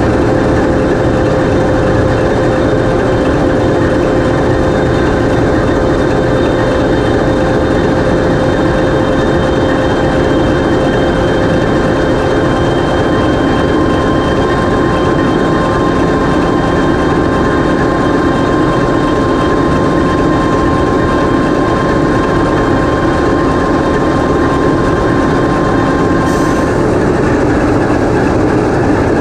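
TEP70 passenger diesel locomotive's 16-cylinder 2A-5D49 diesel engine running steadily under test, heard loud and close inside the engine room. Thin steady whines sit over the engine noise; one of them stops about 26 seconds in.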